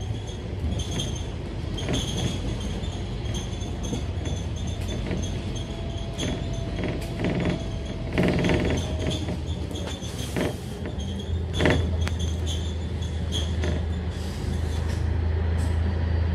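Inside a Scania K310UD double-decker bus on the move: the engine runs under the floor while the body and interior fittings creak and rattle with frequent small knocks. The engine's low drone fades at first and rises again about eleven seconds in.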